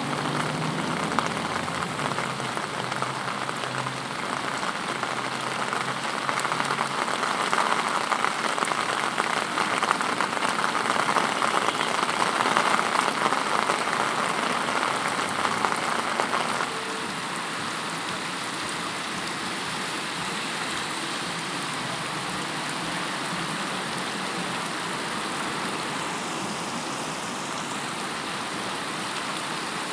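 Heavy rain falling and pattering on surfaces in a steady hiss. A little over halfway through it drops suddenly to a lower, even level.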